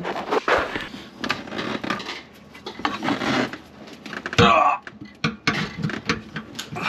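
Plastic sink drain pipe fittings being handled and maneuvered into place: irregular knocks, clicks and scraping.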